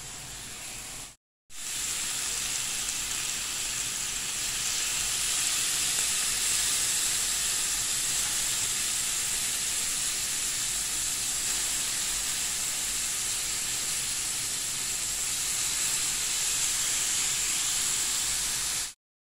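Chicken kebabs sizzling in melting butter on a stovetop grill pan: a steady frying hiss that starts after a brief break about a second in and cuts off suddenly near the end.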